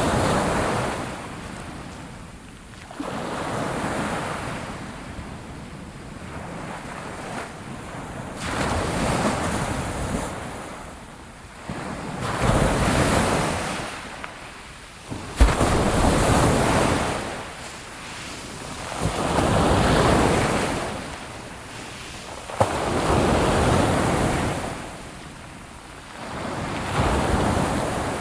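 Ocean waves breaking on a shore, about eight in a row, one every three to four seconds. Each is a rush of surf that swells and then fades, and two of them in the middle break with a sudden crash.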